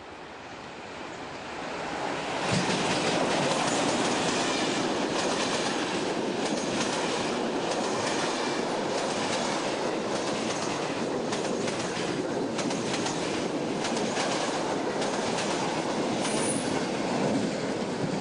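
Passenger train hauled by an electric locomotive passing close by, its wheels running and clacking over the rail joints. It swells as the locomotive arrives about two seconds in and begins to fade near the end, with a brief high wheel squeal just before.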